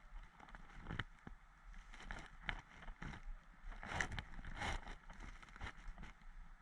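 Footsteps and rustling of clothing and gear, irregular knocks with a louder rustle about four seconds in.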